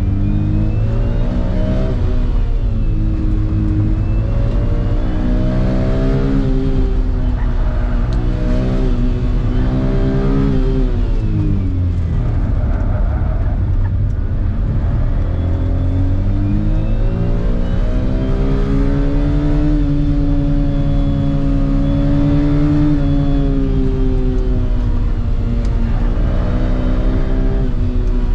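Autozam AZ-1's small turbocharged three-cylinder engine heard from inside the cabin, revving up and down as the car is driven hard through an autocross course. The pitch climbs and drops again and again, falling sharply about twelve seconds in, with a faint high whine rising and falling along with the revs.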